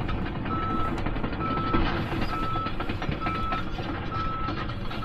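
A single-pitched electronic beep repeating at an even pace, a little under once a second, over a steady low engine rumble.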